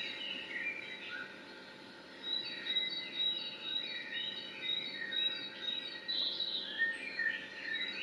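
Songbirds chirping and calling in many short, overlapping notes, with a brief lull about a second in. A steady, thin high tone runs underneath.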